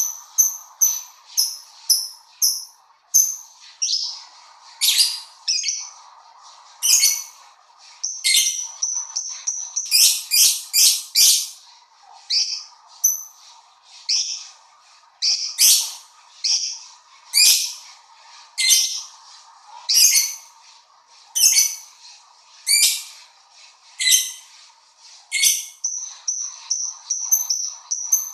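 A bird calling and singing: a long run of short, very high chirps and quick sweeping notes, coming in bouts about every second or so, over a faint steady hum.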